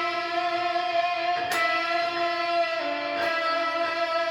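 Electric guitar sustaining a single note bent up a half tone and shaken with vibrato, picked again about a second and a half in.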